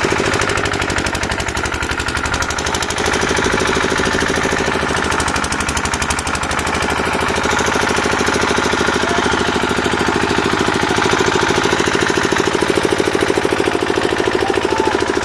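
A machine running steadily with a fast, even knocking rhythm.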